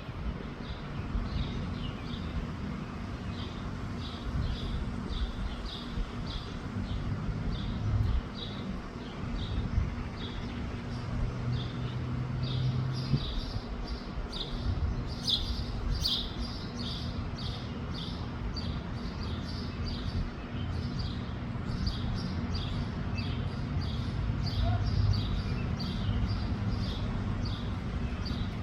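A bird chirping over and over, short high chirps about twice a second, over the low rumble of wind buffeting the microphone.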